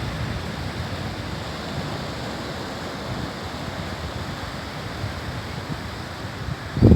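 Sea surf washing onto a beach, a steady rushing noise, with wind rumbling on the microphone. A louder low thump comes near the end.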